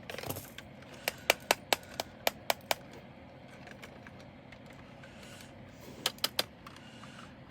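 A quick run of about eight sharp, light clicks of small hard items being handled, then a pause and three more clicks near the end.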